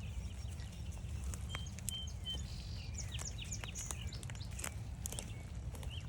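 Gentle rain pattering on an umbrella as scattered sharp ticks, over a steady low rumble of wind on the microphone. Small birds chirp: three short even notes about a second and a half in, then a quick run of falling notes around three seconds.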